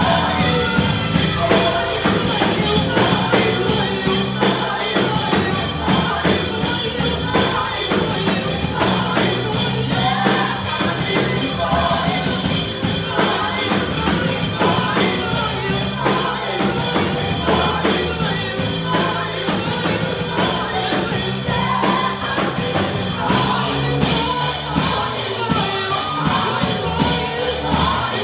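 Church worship music played by a band with drums, running steadily, with some singing.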